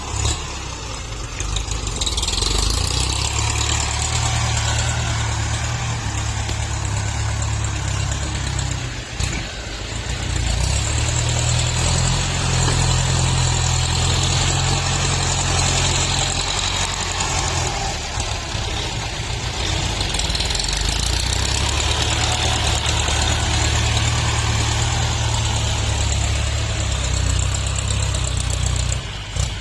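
Diesel tractor engine running under working load while grading soil, its pitch shifting a little as the load changes. The engine eases off briefly about nine seconds in and again near the end.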